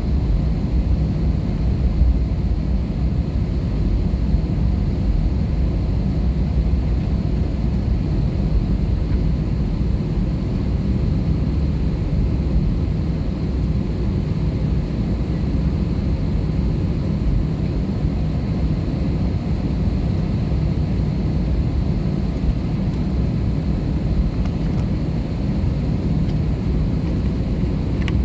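Airbus A320-214 cabin noise: a steady, deep rumble of its CFM56 jet engines and airflow, holding an even level throughout.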